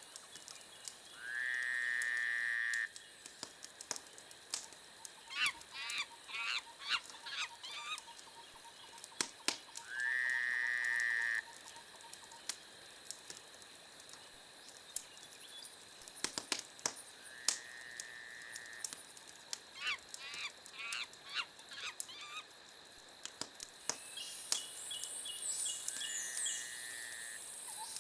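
Wood fire crackling in a fireplace, with scattered sharp pops. Over it, an animal call with a steady pitch sounds four times at even intervals, each about a second and a half long. Twice between these calls comes a quick run of rising chirps.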